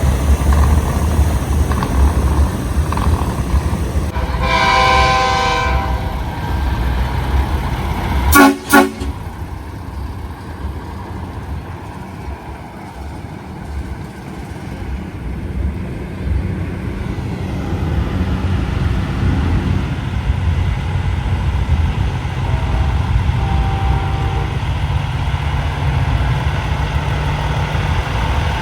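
Semi-truck diesel engines rumbling steadily as big rigs roll by, with air-horn blasts: one held blast about four seconds in, two short, very loud blasts a few seconds later, and a fainter horn near the end.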